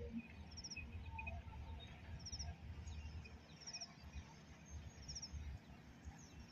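Faint outdoor ambience: small birds chirping, with a short high trilled call repeating about every second and a half, over a low uneven rumble.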